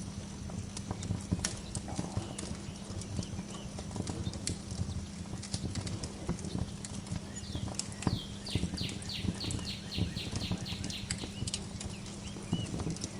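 Wood fire crackling in a fireplace, with a constant low rustle and frequent sharp pops. About two-thirds through, a songbird sings a rapid trill of about a dozen quick descending notes.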